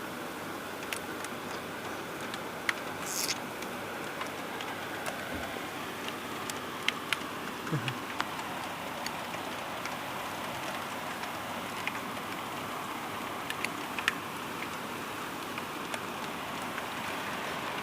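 Hailstones striking a window pane: scattered, irregular sharp ticks over a steady hiss of falling rain and hail.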